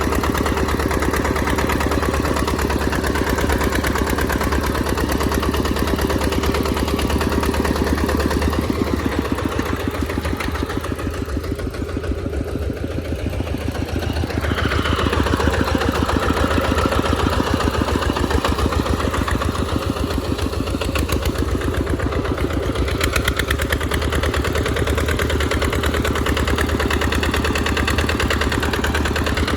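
Tractor engine running steadily while plowing in mud. A little after the middle it eases off briefly, then picks up again with a rise in pitch.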